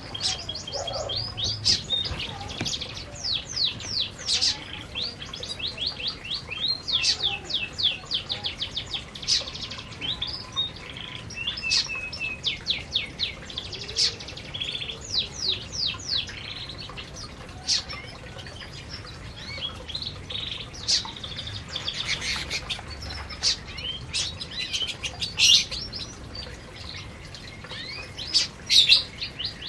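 Domestic canaries chirping and singing in fast trills of high, quickly repeated notes.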